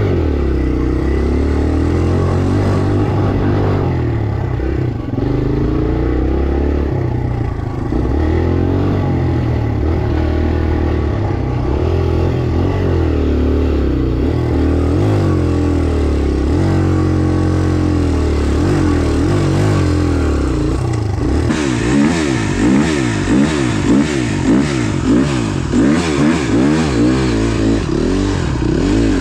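Small four-stroke single-cylinder dirt bike engine revving up and down as it is ridden round a motocross track. About two-thirds of the way in, the revs start rising and falling quickly, about twice a second, with a harsher rattle.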